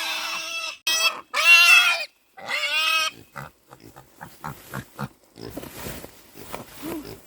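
Piglets squealing: several loud, high-pitched squeals in the first three seconds, then quieter short grunting sounds.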